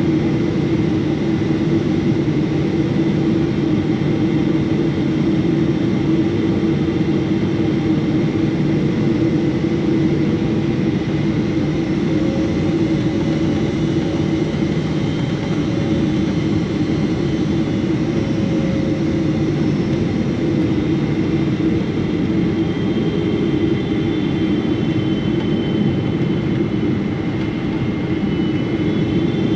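Steady jet engine hum and rush of air in the cabin of a Boeing 777-300 airliner, with a low drone and faint whining tones that drift slightly in pitch partway through.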